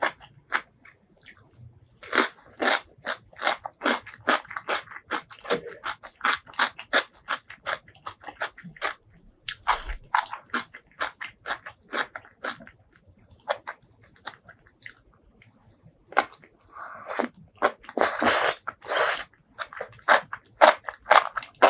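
Close-miked chewing and crunching of food, a steady run of short crisp bites and chews about two or three a second, growing denser and louder for a couple of seconds near the end.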